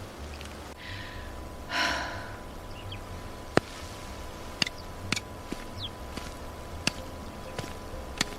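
Footsteps of someone walking outdoors: irregular light clicks and taps over a low rumble, with a short breath, like a sigh, about two seconds in as the loudest sound.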